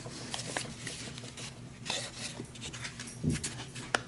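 Handling noise from a plastic driver-bit case: scattered light clicks and rattles of bits and plastic, with a short low sound a little past three seconds.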